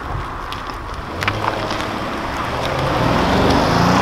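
Audi RS6 Avant's twin-turbo V8 running low, then rising in pitch and getting louder as the car pulls away. A few light ticks sound about a second in.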